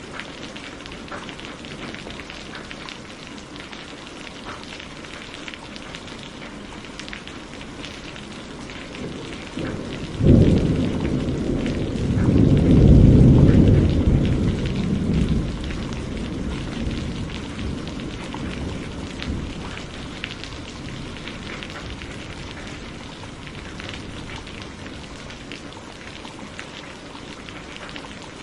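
Steady rain falling, with the patter of individual drops. About ten seconds in, a thunderclap breaks and rumbles for several seconds before fading back under the rain.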